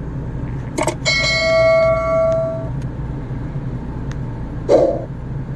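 A knock, then a clear metallic ringing tone that lasts about a second and a half and fades out, over a steady low hum; a few light knocks and a short scuff follow near the end.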